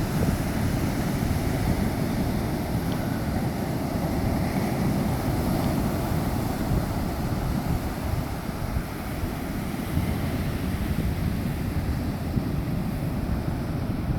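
Wind buffeting the microphone, a low uneven rumble, over the steady wash of ocean surf.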